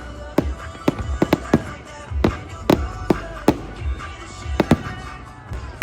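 Fireworks going off: about ten sharp bangs at uneven intervals, with music playing underneath.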